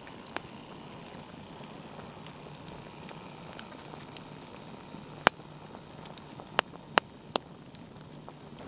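Wood campfire crackling steadily, with four sharp pops in the second half.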